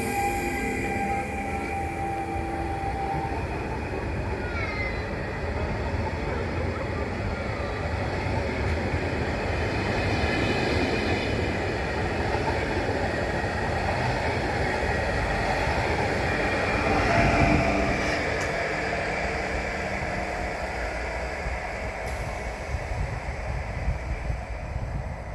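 Intercity passenger train running along the rails, a steady rumble of wheels and cars. There is a thin wheel squeal that stops about three seconds in, and a brief swell in the noise about 17 seconds in.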